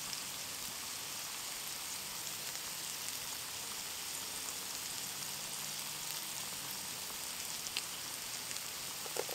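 Bacon bits and sliced mushrooms frying in a Trangia Mini frying pan: a steady, even sizzle.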